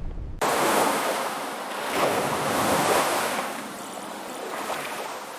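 Water rushing and splashing, with wind buffeting the microphone. It starts abruptly about half a second in, swells twice, then eases toward the end.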